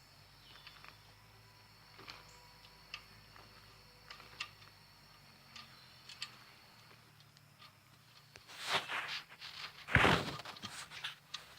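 Hand tools and a steel oil drain plug being worked back into the oil pan: sparse light clicks and taps, then a clatter and a loud knock near the end.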